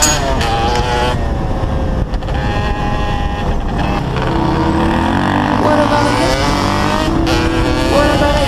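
Dirt bike engine running and revving as the bike is ridden along a gravel track, heard from the rider's own bike. Background music plays along with it.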